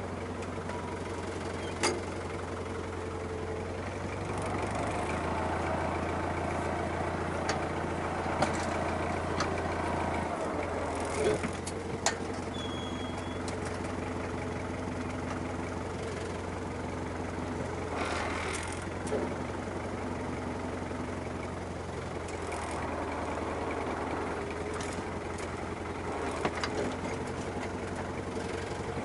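Tractor diesel engine running steadily, with occasional sharp knocks and clanks.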